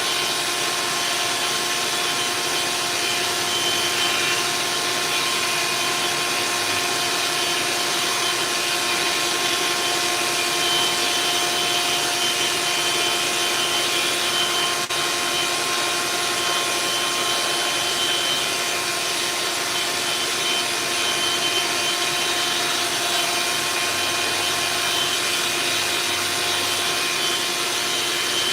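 Electric power sander running steadily with a constant motor hum, sanding cured epoxy fairing compound on a steel hull.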